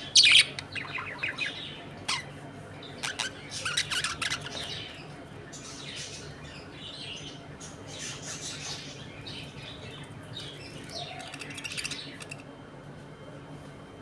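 A flock of budgerigars chirping and squawking, with sharp calls loudest in the first half second. The chatter thins out and stops about twelve seconds in.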